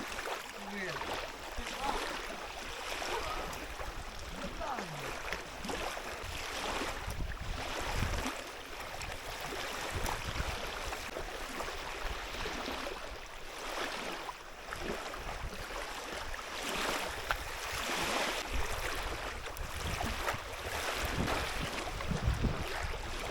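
Small waves lapping steadily on a lakeshore, with a few faint, brief splashes of stones skipped across the water.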